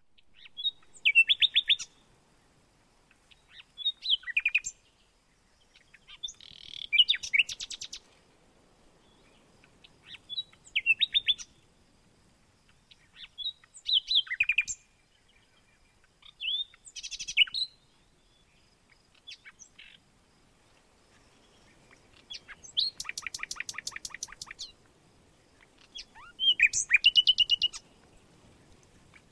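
A songbird singing short high-pitched phrases, roughly one every three seconds, with a longer rapid trill a little past two-thirds of the way through.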